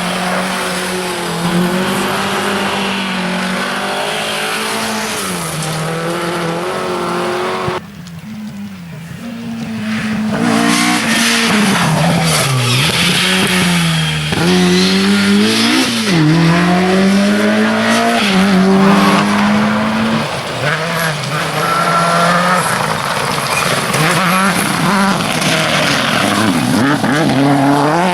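Rally car engines at full stage pace, the pitch climbing and falling steeply through gear changes and braking, with some tyre noise on the loose surface. The sound drops abruptly about eight seconds in, then engine noise builds up again and stays loud with fast up-and-down revving.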